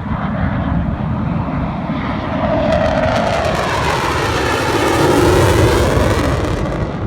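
Panavia Tornado's twin RB199 turbofan engines as the jet passes, the noise swelling to its loudest about five seconds in, with the pitch falling and a sweeping, phasing sound as it goes by.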